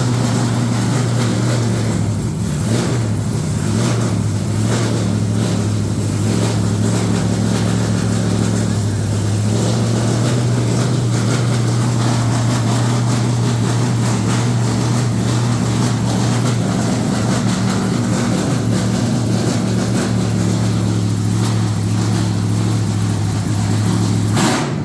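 An engine or motor running steadily with a constant low hum, unchanging throughout.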